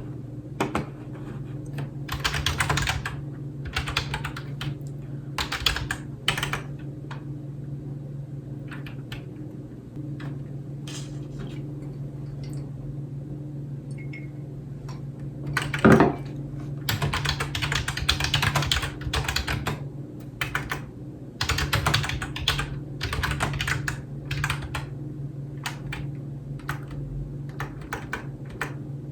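Typing on a computer keyboard: bursts of rapid keystrokes with short pauses, a single louder thunk about halfway through, over a steady low hum.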